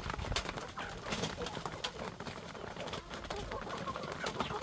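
Farmyard chickens clucking and calling in short scattered notes, with occasional sharp clicks.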